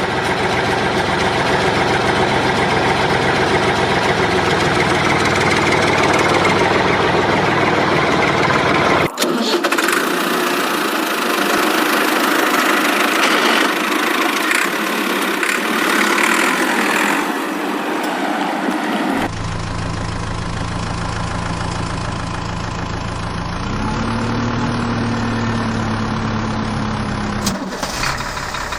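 Vehicle engine running in three spliced stretches that change abruptly about a third and two thirds of the way through. The last stretch is a steady hum that steps up in pitch shortly before the end.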